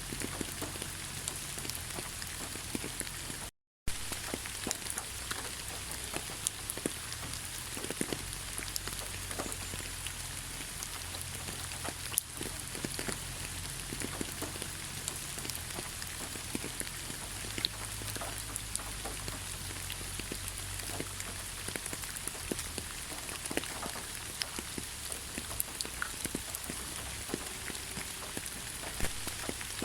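Steady rain falling, with a continuous hiss and many separate drops tapping sharply on a surface. The sound cuts out completely for a fraction of a second about three and a half seconds in.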